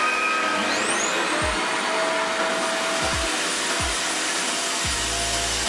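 Revair reverse hair dryer's suction motor coming up to speed and then running steadily: a whine rises in pitch over about the first second, then holds over a loud, even rush of air.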